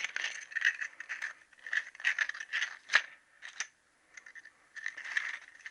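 Emery cloth rubbed by hand in short rasping strokes, about two a second, easing a conrod's tight little-end bush so the gudgeon pin will fit. There is a sharp tap about three seconds in and a short pause after it.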